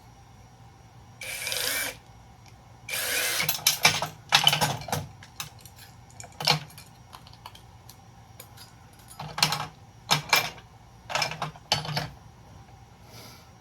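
Handheld power driver running in short bursts, several times over, to back screws out of breaker-box bus bars, with sharp clicks and clinks of small metal parts in between.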